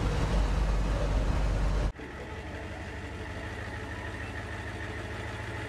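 Loud low rumble of a vehicle running, cut off abruptly about two seconds in, followed by a quieter steady low hum.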